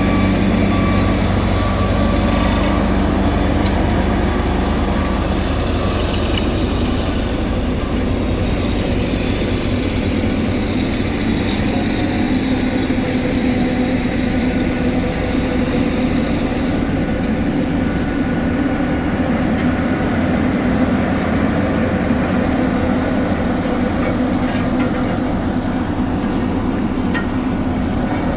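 Heavy road-construction machinery running steadily with a deep diesel drone. Intermittent reversing beeps sound during the first few seconds.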